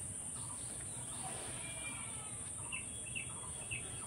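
Birds chirping faintly, with a few short chirps about half a second apart near the end, over a steady background hiss.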